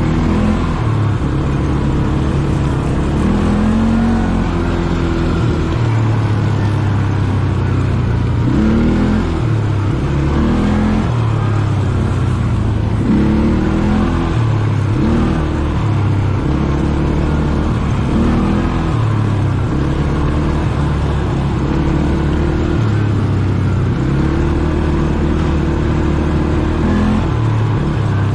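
ATV engine running under way, its pitch climbing and dropping again and again every couple of seconds as the throttle is opened and eased off.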